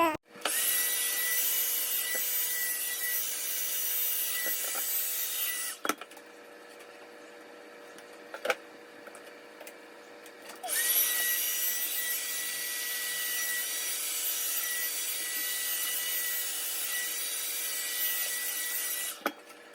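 A small electric motor runs twice with a steady whine: first for about five seconds, then, after a pause with a single click, for about eight seconds. Each run starts and stops abruptly.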